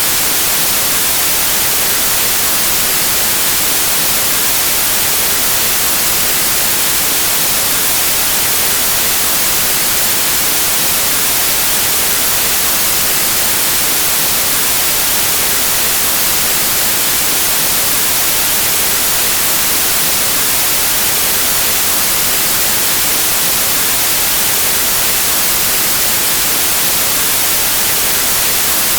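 Steady white noise: an even, unbroken hiss with no pitch or rhythm, brightest in the highs.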